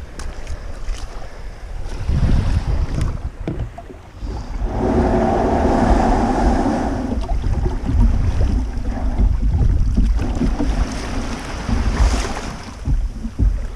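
Wind buffeting the microphone over water sounds from a kayak out on calm sea, with a steady hum rising for a couple of seconds about five seconds in.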